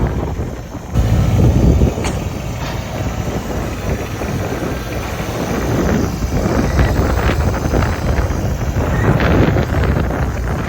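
Tractor engine running steadily, with wind buffeting the microphone; the level jumps up about a second in.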